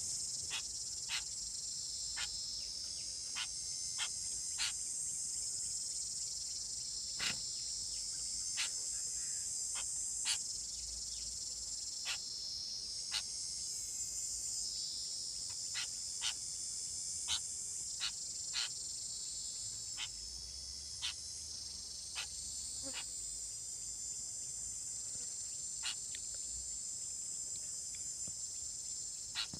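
Dense, steady high-pitched insect chorus of crickets or cicadas, with short sharp chips or clicks repeated irregularly, about one a second.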